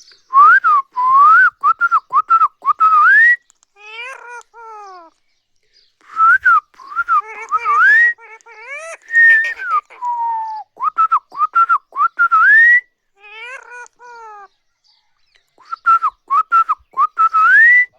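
A pet parrot whistling: four similar phrases of quick up-and-down notes, each ending on a long rising note. Between the phrases come short falling calls.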